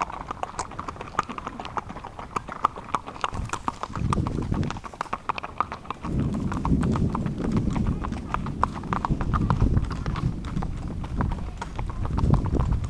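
Horses' hooves clip-clopping at a walk, many irregular hoof strikes overlapping. A low rumble comes in about four seconds in, breaks off briefly, then returns and continues under the hoofbeats.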